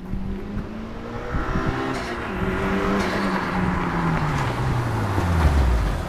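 Sports car engine running hard with road noise. Its note holds steady, then falls steadily in pitch through the second half and is loudest near the end.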